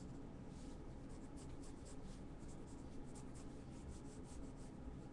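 Faint sketching: a drawing tool scratching across the surface in many short, quick strokes, a few a second, as fluffy feather marks are drawn.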